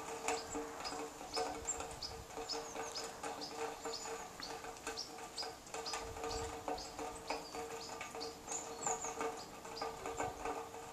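A bird chirping over and over, a short high note about twice a second, over a steady low hum.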